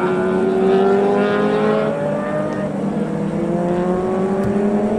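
Racing motorcycle engines at high revs, several bikes overlapping, each pitch climbing steadily as they accelerate.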